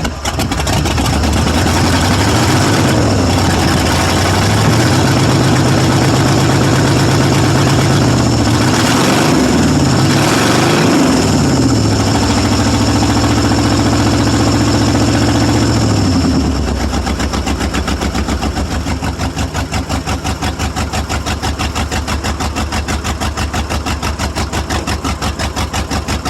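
1995 Ford F-150's 5.8-litre (351) V8 running loud through an open exhaust with no catalytic converters. It is revved up and held, swung up and down several times, then drops to a rough, pulsing idle about 16 seconds in. It is misfiring and loading up on fuel, running as if on four cylinders, which the owner puts down to a blown head gasket or a cracked head.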